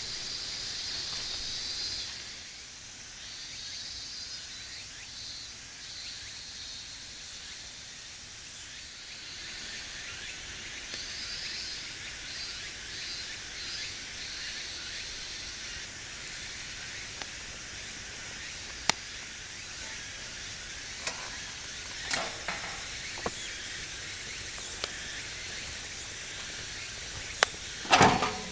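Wood fire in a campfire stand, hissing softly with scattered sharp pops and crackles, the loudest just before the end. High chirping comes and goes in the first half.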